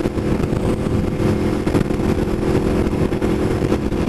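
Aprilia Tuono V4 1100 Factory's V4 engine running at a steady engine speed while the bike is ridden, a constant drone with no revving, over a rough rush of wind noise.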